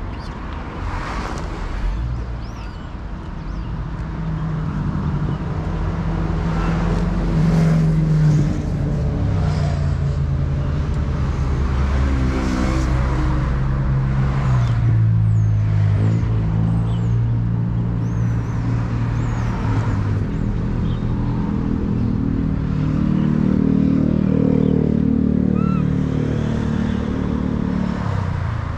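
A motor vehicle's engine running, its pitch stepping up and down over the seconds, with small bird chirps now and then; the sound cuts off suddenly at the end.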